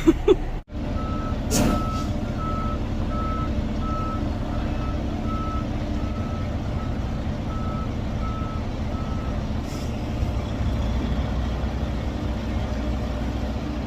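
Semi truck's diesel engine running steadily while a backup alarm beeps in an even rhythm, about one and a half beeps a second, stopping about nine and a half seconds in. There is a short hiss about a second and a half in.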